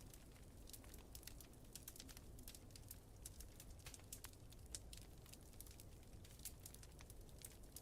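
Wood fire crackling faintly: many small, irregular pops and snaps over a steady low rumble.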